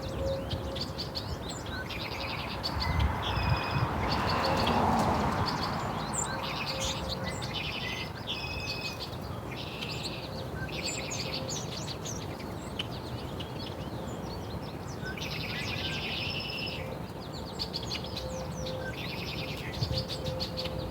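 Small songbirds chirping and singing, short trilled phrases repeated again and again, over a steady background hum; a swell of noise rises and fades about four to five seconds in.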